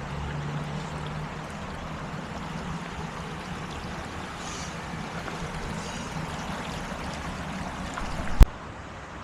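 River water flowing steadily, with a low hum under it in the first part. A single sharp click about eight seconds in.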